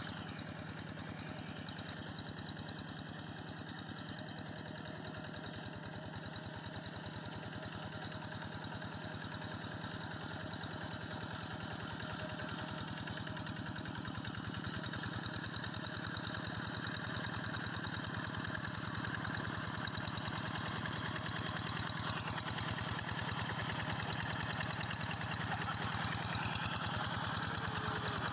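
Engine of a Quick G3000 SEVA rice-paddy tractor running steadily with an even, rapid firing beat, growing gradually louder over the second half.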